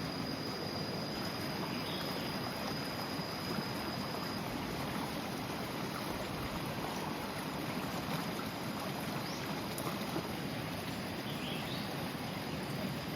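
Steady outdoor noise like running water or wind, with a thin high insect trill that fades out about four seconds in and a few faint short chirps.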